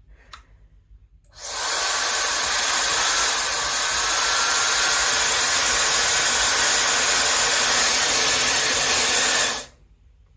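A faint click, then a CONFU 1800W ionic hair dryer running with a steady, even rush of air for about eight seconds before it stops.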